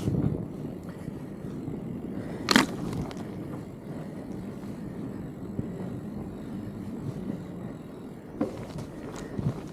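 Fat bike riding along a dirt trail: a steady rumble of the wide tyres and drivetrain, with one sharp clack about two and a half seconds in and a few lighter rattles near the end.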